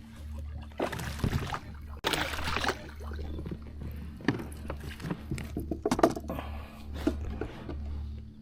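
Water splashing and sloshing around a kayak, with irregular knocks and thunks against the hull, over a steady low hum.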